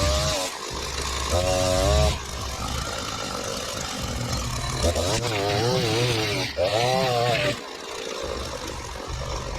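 Small petrol engine of lawn equipment running, its pitch wavering up and down as it takes load.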